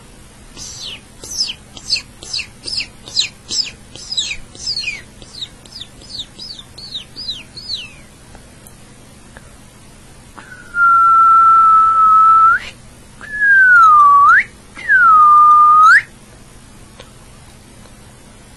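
A person whistling bird-call imitations. First comes a run of about twenty quick chirps, each sweeping downward, trailing off lower and softer over some seven seconds. After a short pause come three long, louder whistled notes: the first held level with an upward flick at the end, the next two dipping and then rising.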